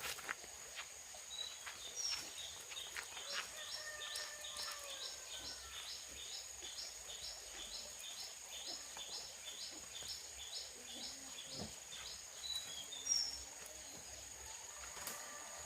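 Outdoor forest ambience: a bird repeats a short, high call about three times a second for several seconds, over a steady high-pitched whine, with a few scattered chirps and faint clicks.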